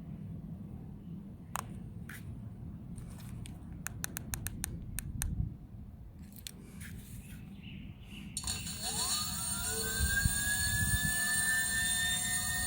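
A few scattered clicks and light knocks, then a brushless direct-drive hub motor spinning up: about eight and a half seconds in, a whine rises quickly and settles into a steady high whine as the motor reaches running speed.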